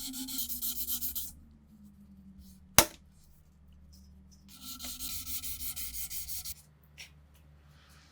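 Quick back-and-forth hand rubbing on a rusty rifle part, like sanding, in two spells of strokes. Between the spells, about three seconds in, comes a single sharp knock, with a lighter click later.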